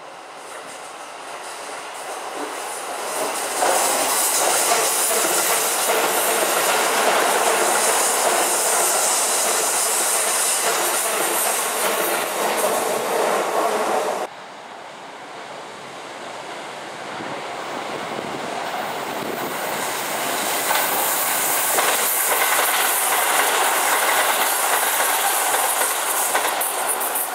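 Shin-Keisei 8000 series electric commuter train running past on a curve, its wheels clattering over rail joints and squealing. The sound swells over the first few seconds and stays loud, breaks off abruptly about halfway through, then builds again as the train passes close by.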